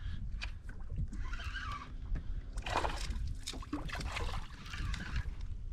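Water sloshing and splashing around a kayak, in several short bursts over a steady low rumble, while a small hooked pike is played alongside.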